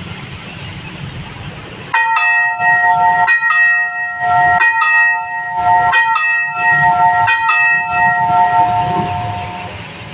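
Railroad level-crossing warning bell starting about two seconds in, sounding in repeated pairs of ringing strikes about every 1.3 seconds, then dying away near the end.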